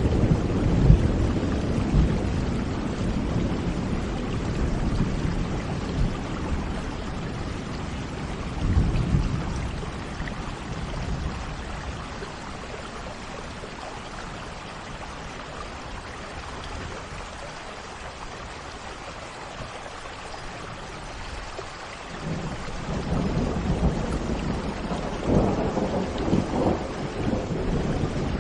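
Steady rain with rolling thunder: a deep rumble fades over the first ten seconds, a quieter spell of rain follows, and the thunder swells again about three-quarters of the way through.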